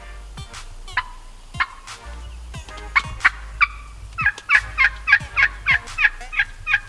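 Wild turkey hen yelping: a few scattered yelps, then a fast run of about eight sharp yelps at roughly four a second.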